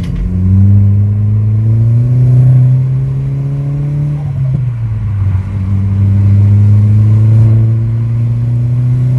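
Turbocharged car engine heard from inside the cabin, accelerating at part throttle with its pitch climbing steadily; about four and a half seconds in the pitch drops at a gearshift, then climbs again. The engine is making about half a bar of boost.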